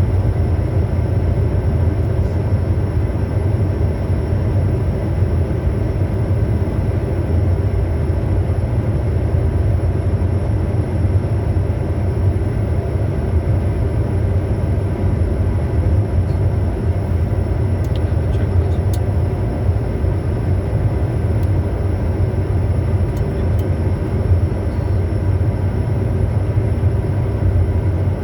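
Steady in-flight noise of a Bombardier Challenger 350 business jet on approach: a continuous low rumble of airflow and its twin Honeywell HTF7350 turbofans, with faint steady whining tones above it.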